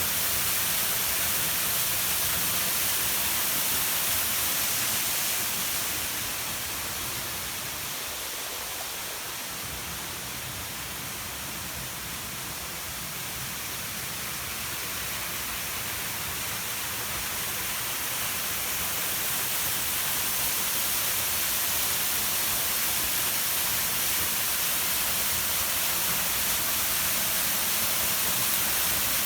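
Small mountain waterfall (Ayahiro Falls) splashing into its pool, a steady rushing hiss. It grows somewhat quieter for several seconds after the start, then comes back up.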